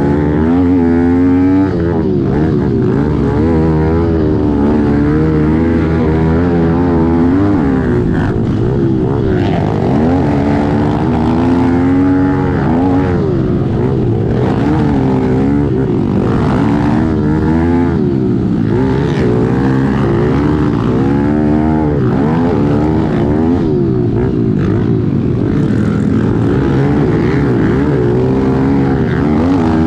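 Kawasaki KLX110L pit bike's small four-stroke single-cylinder engine under hard throttle, heard onboard, its pitch climbing and dropping every second or two as the rider works the throttle and gears.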